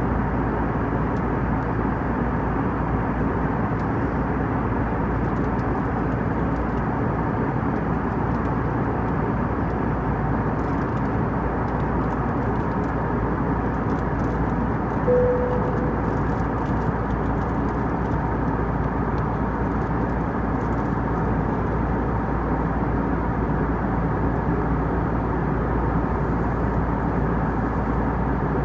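Steady cabin noise of an Airbus A320 in flight, the even rumble and rush of the engines and airflow. About halfway through comes one brief tone.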